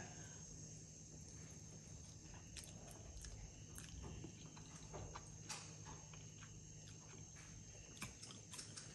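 Faint chewing of a mouthful of noodles: soft, wet mouth clicks scattered throughout, over a quiet, steady background hum.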